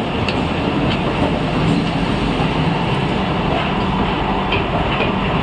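MEMU passenger train's coaches rolling slowly past along a platform: a steady rumble of wheels on rail with a few faint clicks.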